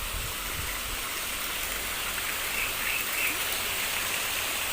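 Waterfall with falling water splashing in a steady, even rush. A few faint chirps show through about two and a half to three and a half seconds in.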